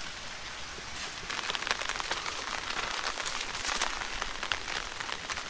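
Rain pattering: a steady hiss, thickening about a second in into dense, fine crackling ticks.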